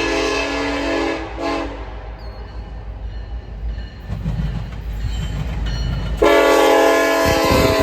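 Diesel locomotive air horn sounding a chord: a long blast that ends about a second in, then a short blast. Rumble of the passing train follows, and a long horn blast starts again about six seconds in.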